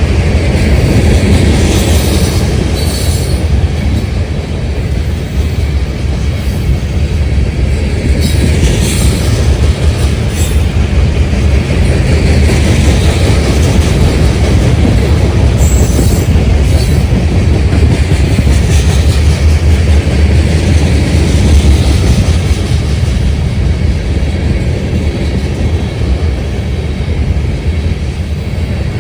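Train cars rolling past close by: a steady, heavy rumble of wheels on the rails, with brief high-pitched wheel squeals every few seconds.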